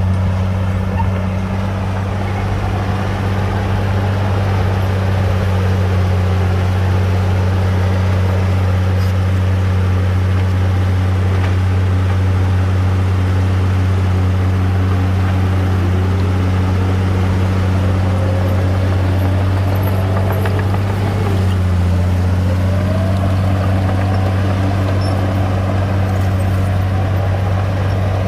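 Bulldozer's diesel engine running steadily under work, a deep constant drone. Over it, higher whining tones slide up and down now and then in the second half.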